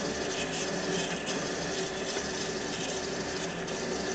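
A lathe running at about 400 RPM as a drill bit feeds into a 3D-printed plastic knob blank: a steady motor hum with the even noise of the cut.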